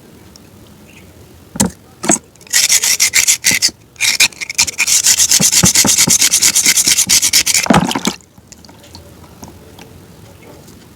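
Close-miked crisp crunching: a couple of sharp knocks, then about five seconds of dense, rapid crackling with a short break, stopping about eight seconds in.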